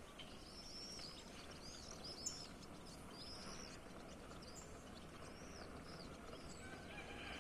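Small birds chirping: a series of short, high, arched chirps that thin out over the last couple of seconds, over a faint steady outdoor hiss.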